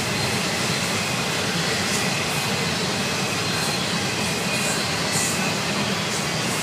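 Freight train's intermodal container cars rolling past close by: a steady rumble of wheels on rail, with faint high squealing tones running through it.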